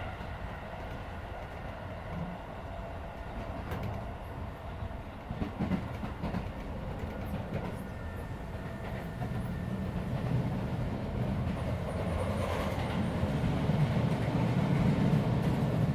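Interior running noise of a Keisei 3400 series electric train car at speed between stations, with scattered wheel clicks over the rails. The low rumble grows louder through the second half.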